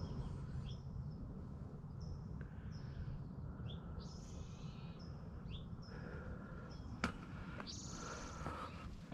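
Wild birds calling: short high chirps every second or so, and a longer buzzy trill near the end, over a steady low rumble. A single sharp click about seven seconds in.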